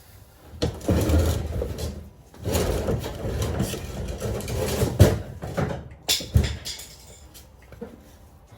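Honda Grom mini bike's single-cylinder engine being cranked for a cold start through a racing exhaust: two tries, each turning over and sputtering for a second or a few seconds without settling into an idle, with a sharp pop near the end of the second try and two short bangs right after. It is struggling to start cold, which the owner puts down to the choke being off.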